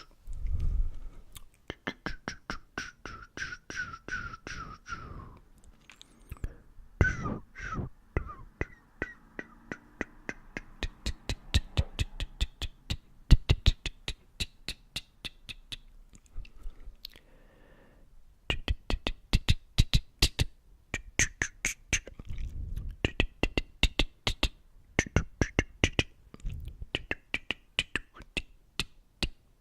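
Close-up ASMR mouth sounds: rapid clicks and pops, many a second, with a short pause a little past the middle.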